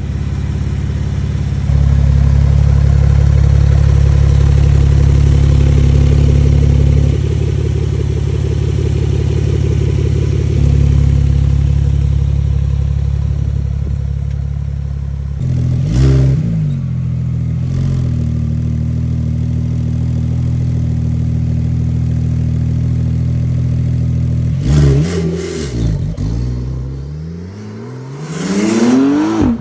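Porsche 911 Turbo S (992) twin-turbo flat-six running through a titanium valved exhaust: a steady idle, a quick rev blip about halfway, and revs climbing near the end.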